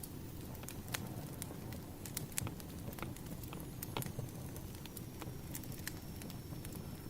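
Burning firewood crackling: irregular sharp pops and snaps, several a second, over a low rumble of the fire.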